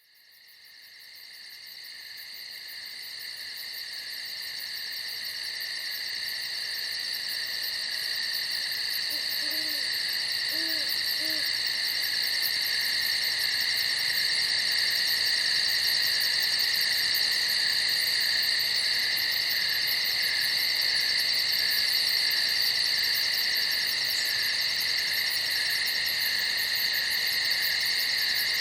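Dense, steady chorus of crickets chirping, fading in from silence over the first several seconds. An owl hoots softly three times about ten seconds in.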